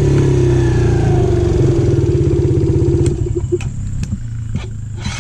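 Dirt bike engine running at steady throttle, then easing off about three seconds in. While it runs quieter there are a few sharp knocks and rattles.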